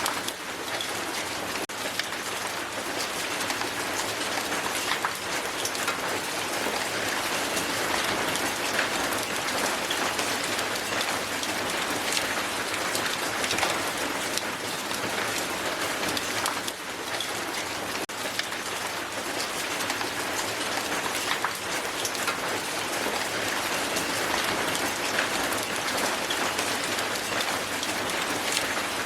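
Hail falling hard on the ground, a dense steady hiss of countless small ice impacts with many sharper individual ticks scattered through it.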